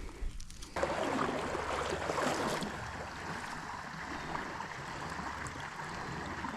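Creek water running, starting abruptly under a second in. It is louder for the first couple of seconds, then settles to a steady rush.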